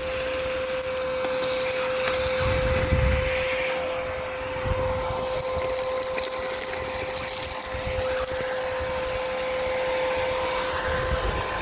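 Miele Complete C2 Tango EcoLine canister vacuum running with a steady motor whine while sucking up grit and debris from a street surface, with scattered crackling rattles as bits are pulled up the hose.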